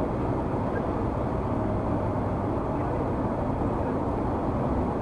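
Steady road and engine noise of a car cruising at freeway speed, picked up by the in-car dashcam microphone.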